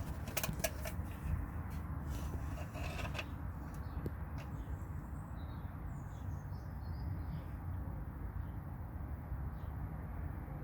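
Small birds chirping, several short calls from about four seconds in, over a steady low rumble of wind on the microphone. A few sharp knocks come in the first three seconds.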